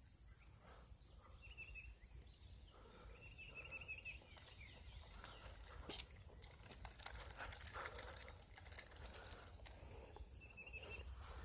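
Faint outdoor ambience: a bird chirping in short runs of quick high notes, heard three or four times, with light rustling and a few soft clicks.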